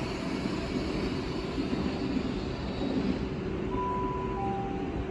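Great Western Railway IET train running out of the station, a steady rumble with a rushing hiss that fades after about three seconds as it draws away. Two faint short whistling tones near the end.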